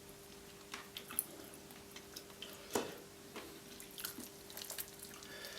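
Faint wet chewing and mouth sounds of someone eating roast chicken close to the microphone, with scattered small clicks, one louder about three seconds in, over a low steady hum.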